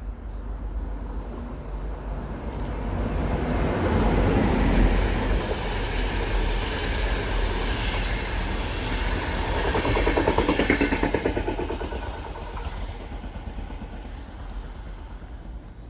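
Passenger train passing on the line, building up, loudest about four seconds in and again around ten seconds with a rapid clatter of wheels over the rails, then fading away. A thin high wheel squeal sounds around the middle.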